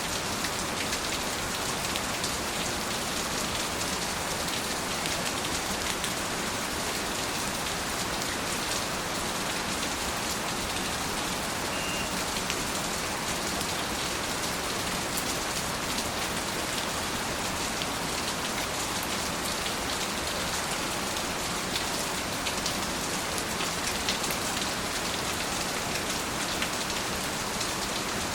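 Steady rain falling, a dense even hiss with many individual drops pattering through it.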